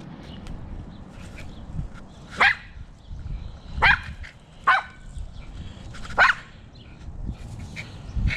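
American Eskimo dog barking four times, short sharp barks spaced about one to one and a half seconds apart.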